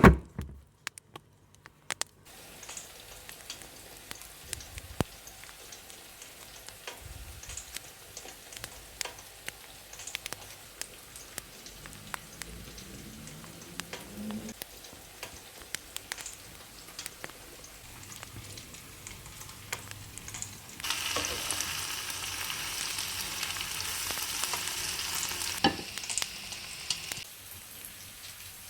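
Food frying in a pan: a faint steady sizzle with the small clicks and taps of a utensil stirring. A loud knock comes at the start, and a louder rush of hiss lasts about five seconds near the end before cutting off at a sharp click.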